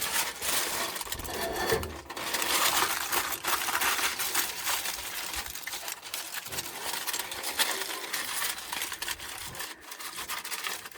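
Outdoor camp-stove cooking noise: a gusty, shifting hiss with light metallic clinks and rattles of a pot and lid on a Coleman camp stove.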